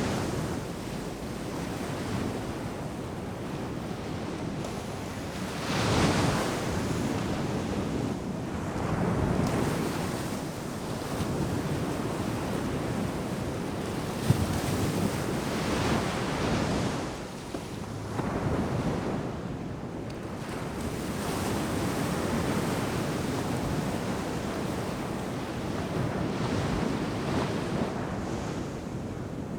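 Ocean surf breaking on the shore, waves rushing in one after another in surges every few seconds over a continuous wash of water. A single short click sounds about halfway through.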